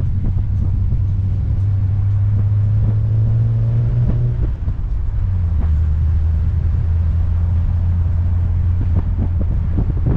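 Triumph TR5's 2.5-litre fuel-injected straight-six engine running while the open car drives along, its note climbing slightly for the first few seconds. About four and a half seconds in it breaks briefly, then runs on steadily at lower revs.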